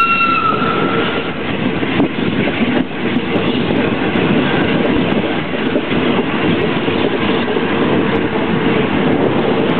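Train running along the track: a dense, steady rumble of wheels and carriages with a steady low hum and occasional faint clicks of wheels over rail joints. A high tone, like a horn, carried over from just before dies away in the first second.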